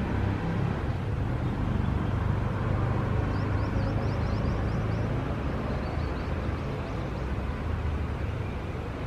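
Steady city traffic rumble from passing vehicles. About three seconds in, a short run of faint high bird chirps sounds over it.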